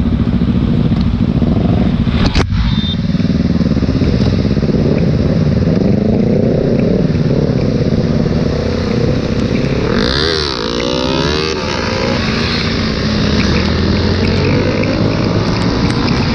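Motorcycle running on the road, its engine pitch rising and falling with the throttle. There is a sharp click a couple of seconds in. About ten seconds in, another motorcycle's engine sweeps past close by.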